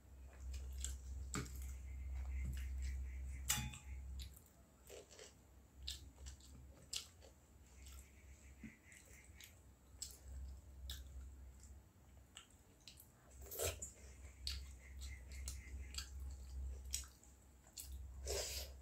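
Close-miked eating sounds of a person eating soaked rice (pakhala) and fried vegetables by hand: chewing, wet squishy mouth and finger sounds, and irregular sharp little clicks.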